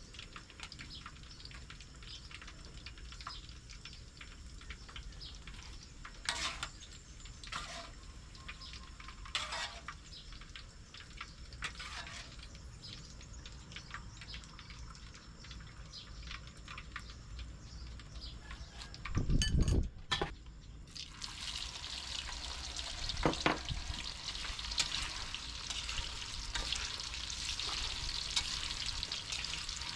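Scattered light clicks and taps of kitchen work, then one heavy thump. Soon after, food starts sizzling and crackling in hot oil, growing louder and steady.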